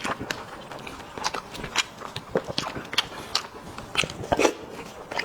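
Close-miked eating of spicy sheep head: a person biting and chewing meat off the head, with irregular sharp wet clicks and smacks and a louder burst of chewing near the end.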